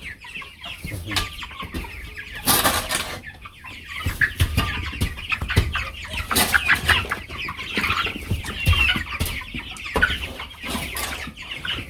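A flock of broiler chickens cheeping and clucking continuously, with scattered short clicks and knocks among the calls.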